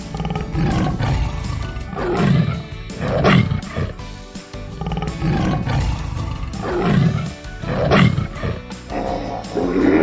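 A large wild animal roaring in repeated deep calls, two close together about two seconds in and two more about seven seconds in, over background music.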